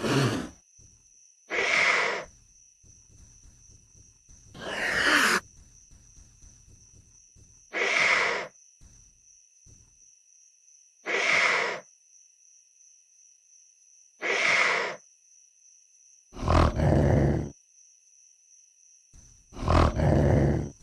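Sound-effect calls of a saber-toothed cat (Smilodon): six short big-cat calls, spaced about three seconds apart, then two longer, deeper roars near the end.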